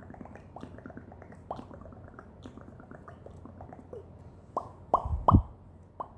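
Close-miked ASMR mouth sounds: a string of small wet tongue clicks and lip pops, each dropping in pitch, with a few louder pops about four and a half to five and a half seconds in.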